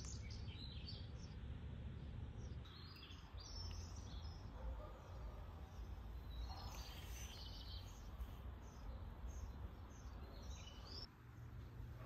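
Small birds chirping and twittering in a garden, many short high calls scattered throughout, over a steady low background rumble.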